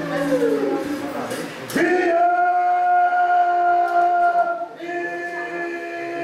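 A man's voice singing a Candomblé chant unaccompanied, gliding between notes at first and then holding two long, steady notes.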